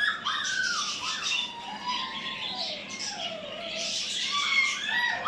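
Many caged birds chirping and squawking together in a continuous chatter of overlapping short calls and pitch glides.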